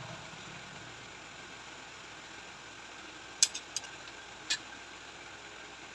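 Low steady background hiss, with a few short, sharp clicks or taps in the second half.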